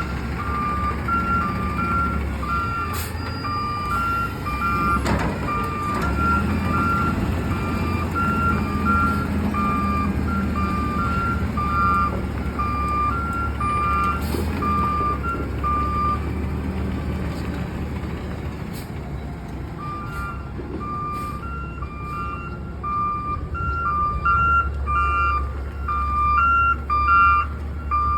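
Garbage truck's diesel engine running with its reversing alarm beeping in two alternating tones; the beeping stops for a few seconds past the middle, then starts again. A few sharp clanks sound over it.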